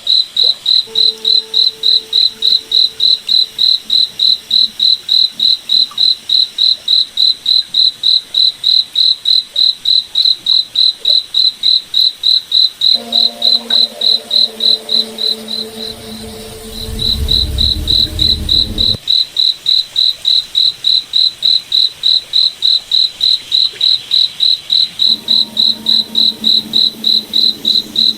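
Crickets chirping in a steady, even pulse of about three chirps a second. Lower steady tones come and go underneath, with a brief low rumble about two-thirds of the way through.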